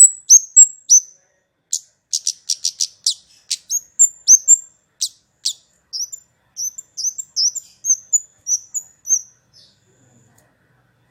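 Kemade (a small songbird) calling: a quick run of high, sharp chirps and ticks, with a fast rattle-like burst about two to three seconds in, falling silent near the end.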